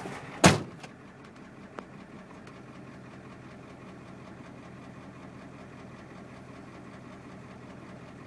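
A single loud thump about half a second in, with a lighter click about a second later, over a 1994 Ford 7.3 IDI turbo diesel V8 idling steadily. This is the engine the owner is recording for its knock.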